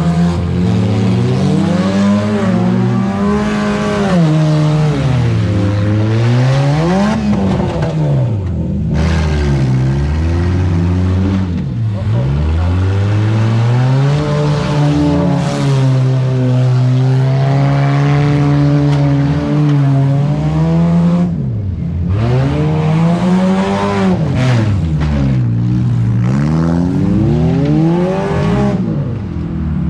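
Several demolition derby car engines revving hard, each one rising and falling in pitch as the cars accelerate, back up and ram one another, with one engine holding a steady pitch for stretches underneath.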